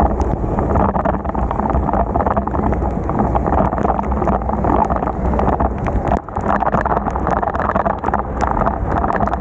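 Steady wind rush on the microphone of a bicycle riding through heavy rain, with a dense patter of small ticks from rain and wet-road spray. The noise dips briefly about six seconds in.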